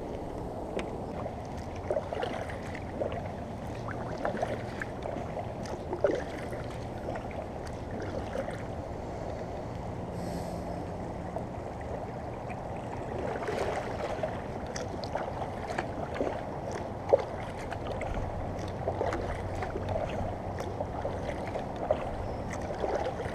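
River water lapping and splashing against a kayak, with irregular small splashes every second or two over a steady wash of moving water.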